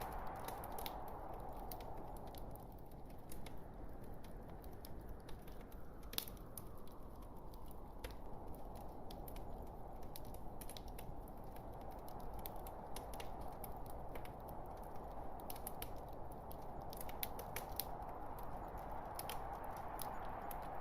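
Burning log fire crackling: irregular sharp pops and snaps over a steady soft rushing hiss.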